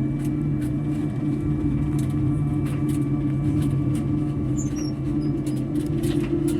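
Airliner cabin noise: a steady hum from the engines and air system, with light clicks and rattles from cabin fittings.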